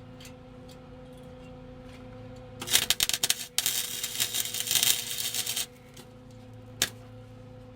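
Welding arc crackling as a tack weld is laid on an exhaust pipe: a short burst of about a second, a brief break, then about two seconds more, starting about two and a half seconds in. A single sharp click follows about a second after the arc stops.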